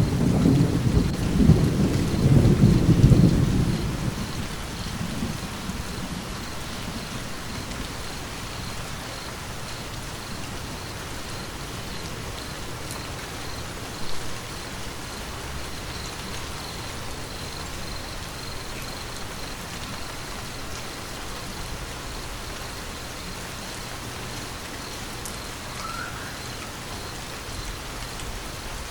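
Steady rain falling, with a low rolling thunder rumble at the start that fades out over the first few seconds. A single brief thump about halfway through.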